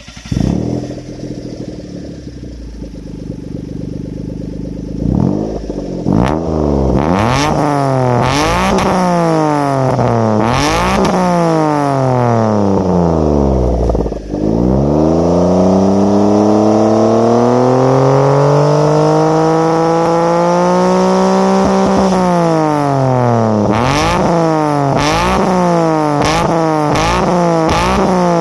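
1998 Mitsubishi Minica's 3G83 three-cylinder engine heard through an RS-R aftermarket muffler with the inner silencer removed and a straightened stock mid pipe. It idles just after starting, then is revved unloaded in a string of quick blips, a long climb held high for several seconds before dropping back, and more quick blips near the end.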